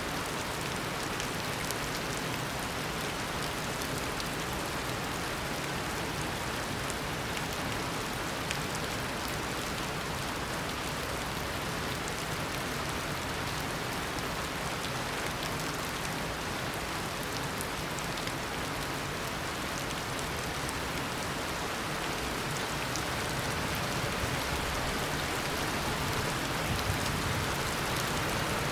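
Heavy tropical downpour: steady rain with many fine drop ticks, growing slightly louder near the end.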